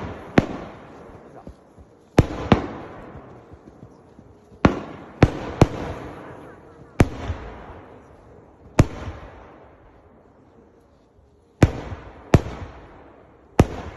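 Fireworks going off: about eleven sharp bangs at irregular intervals, some in quick pairs, each followed by a fading tail.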